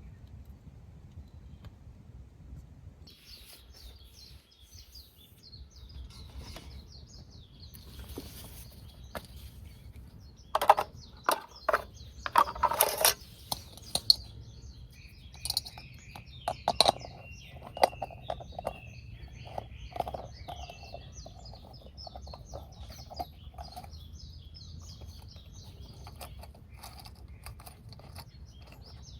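Small birds chirping and twittering continuously over a low outdoor rumble, with a run of loud sharp knocks and clatters about a third of the way in and another a few seconds later.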